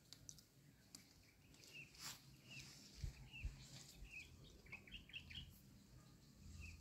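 Near silence with faint, short bird chirps repeating here and there, a quick run of three or four near the five-second mark. A single brief rustle about two seconds in.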